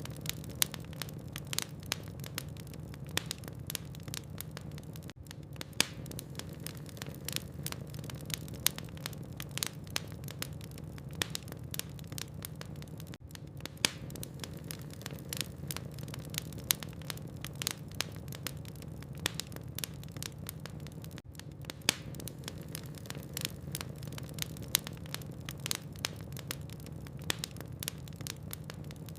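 Wood fire in a fireplace crackling: frequent sharp pops and snaps from burning logs over a steady low rumble, with a brief dip in the sound about every eight seconds.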